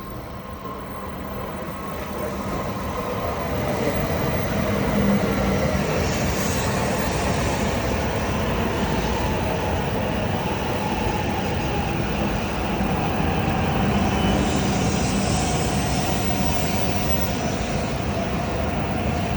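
Hokuriku Shinkansen train running on the line: a steady rush of wheel and air noise that builds over the first few seconds and then holds.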